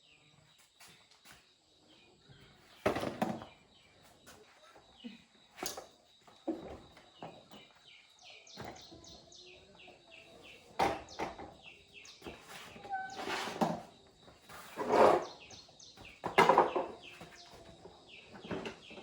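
About six loud, short knocks and clatters a few seconds apart, typical of hand tools and metal parts handled while a motorbike tyre and inner tube are changed. Faint bird chirping runs underneath.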